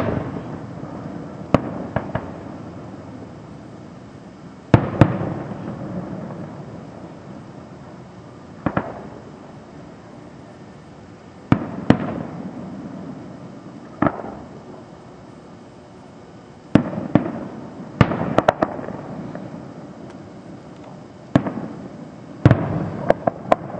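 Aerial fireworks shells bursting: a string of sharp bangs at irregular gaps of one to four seconds, some in quick clusters, most clearly a little past halfway and near the end. Each bang trails off in a rolling rumble of echo.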